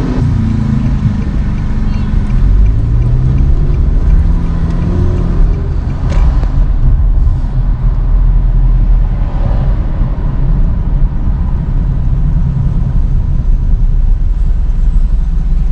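Trolley bus engine rising in pitch as it pulls away during the first few seconds, then a steady low rumble of the vehicle in motion.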